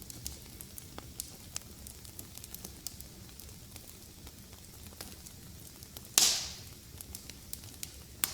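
Wood fire in a fireplace crackling, with frequent small snaps and one loud pop about six seconds in.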